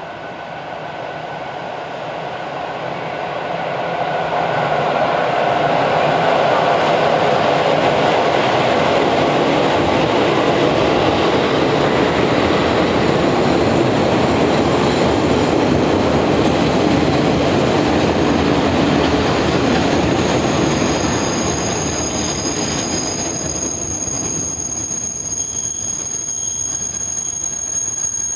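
Five-car local train running into the station platform, its rumble and wheel noise building over the first few seconds and staying loud. From about twenty seconds in the noise eases as the train slows, and high steady brake squeal rings out.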